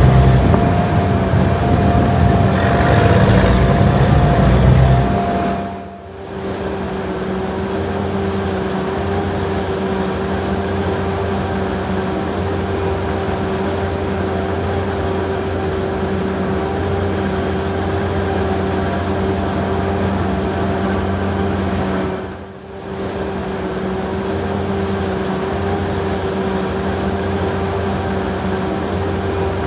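Heavy farm machinery running steadily under load, with a constant mechanical whine over the engine drone. The sound dips briefly twice and comes back with the whine at a different pitch.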